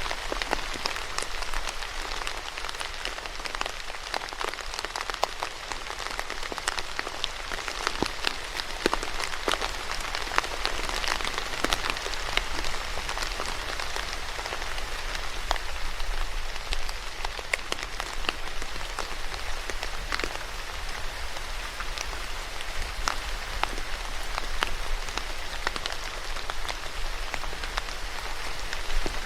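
Steady rain falling on a surface, with many separate drops ticking sharply through the steady patter.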